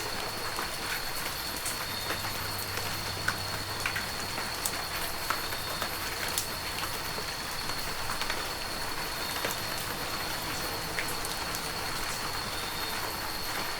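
Heavy rain falling steadily, a dense even hiss with many scattered sharp drop ticks, under a faint steady high-pitched tone.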